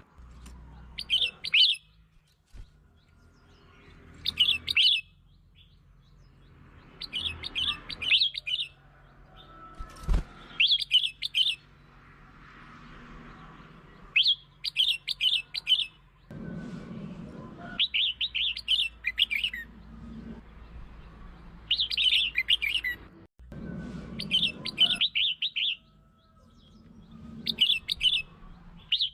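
Red-whiskered bulbul singing: short phrases of quick, chattering high notes, repeated every couple of seconds. This is the bulbul song used to lure and provoke other bulbuls. There is a single sharp click about ten seconds in.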